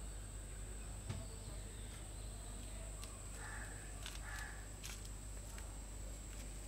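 A bird calls twice in quick succession a little past the middle, over a faint steady high whine, with a light knock about a second in.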